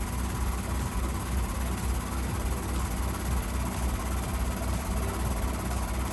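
A heavy diesel engine running steadily at idle, a low, even throbbing rumble.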